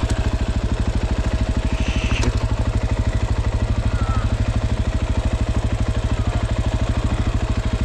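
Dirt bike engine running steadily at low revs, an even rapid putter with no revving.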